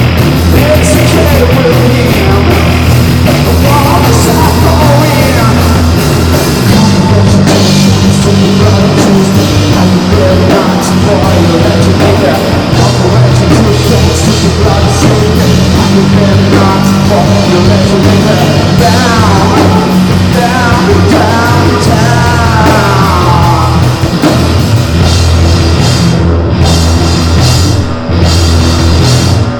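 Live rock band playing loudly: electric guitar, bass and drum kit, with held bass notes that change pitch and sliding guitar lines in the middle. A few short breaks in the playing come near the end.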